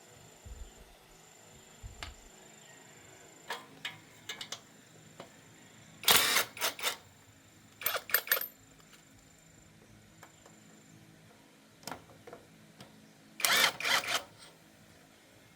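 Sharp clicks and short bursts of clatter from tools and parts being handled during work on a Honda Win 110 engine, loudest in three clusters about two seconds in, around eight seconds in, and near the end.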